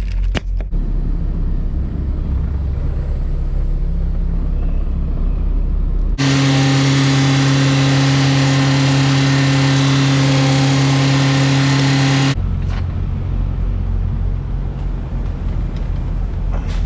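Semi truck's diesel engine idling with a low, steady rumble. About six seconds in, a louder, steady droning hum with hiss cuts in abruptly and stops just as suddenly about six seconds later, leaving the idle rumble.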